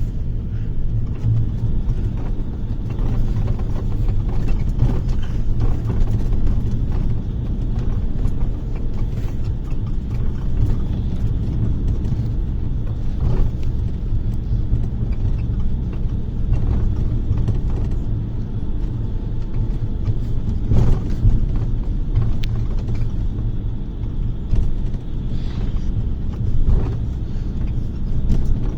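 A bus running along the road, heard from inside the passenger cabin: a steady low engine and road rumble, with a few short knocks and rattles from the bodywork over bumps.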